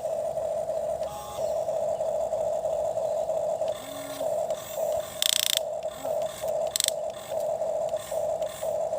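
Toy excavator's small geared motor whining steadily, stopping and starting several times in the second half. There are two short scraping clatters, the louder about five seconds in.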